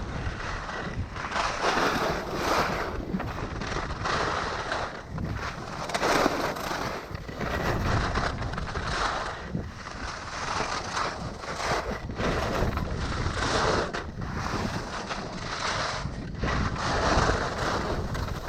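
Alpine skis scraping and carving over hard, icy snow, swelling with each turn every second or two, with wind rushing over the microphone.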